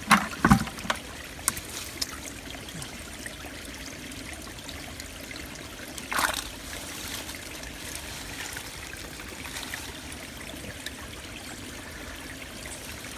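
Shallow creek water trickling and running steadily over rocks, fed by the pond's flood overflow. A few sharp splashes or knocks in the first second and one more about six seconds in, as hands work under the rocks in the water.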